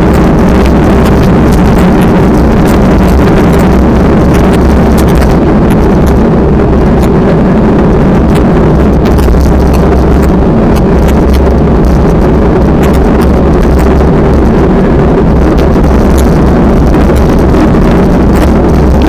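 Strong wind buffeting the microphone, loud and unbroken, over a steady low hum.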